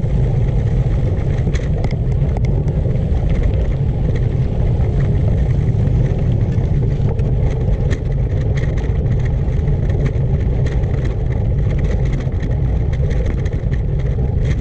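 Steady wind rumble on the microphone and tyre noise from a gravel bike being ridden, with frequent small clicks and rattles.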